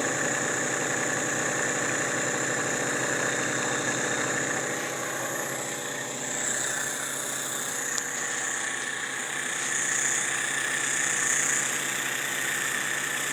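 Stirlingkit miniature gasoline model turbojet engine spinning on its own, a steady high-pitched hum with hiss, with one faint click about eight seconds in.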